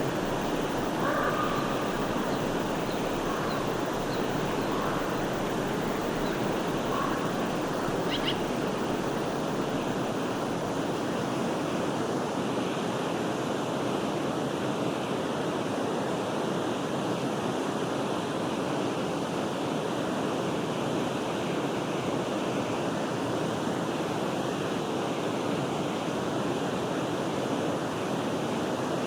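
Steady rushing flow of a forest stream. A few faint bird chirps come in the first eight seconds or so.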